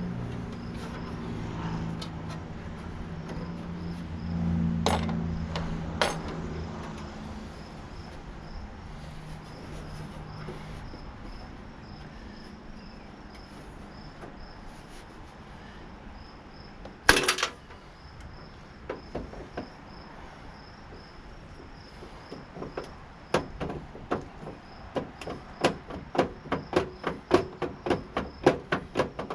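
Hand tools knocking and tapping on a tankless water heater's metal parts during teardown: a few separate knocks, one loud one about halfway through, then a run of quick, regular taps near the end. Crickets chirp steadily in the background.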